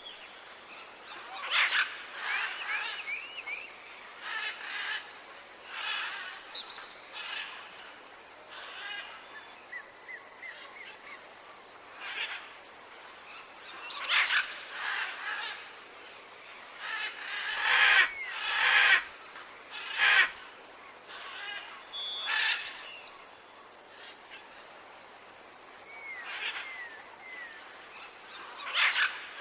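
Parrots calling: scattered squawks and chirps with a few quick whistled notes, and a few loud harsh squawks about two-thirds of the way through.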